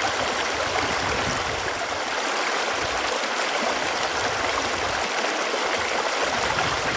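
Running water flowing steadily: a continuous, even rush with a light gurgle.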